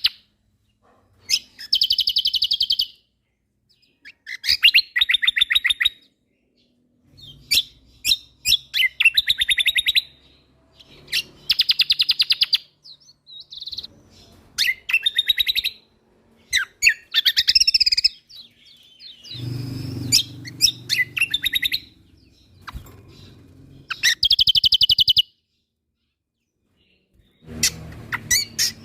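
Kecial kombok (cucak kombo) songbird singing in repeated high-pitched bursts of rapid-fire trilled notes. Each burst lasts about one to two seconds, with short pauses between. A low rumble sits under the song about two-thirds of the way through and again near the end.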